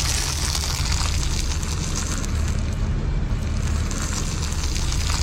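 Car running and rolling slowly, a steady low rumble with a rushing haze above it and no distinct bursts.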